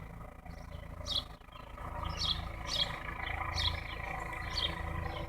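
Small birds chirping: short high chirps repeating about every half second over a steady low rumble.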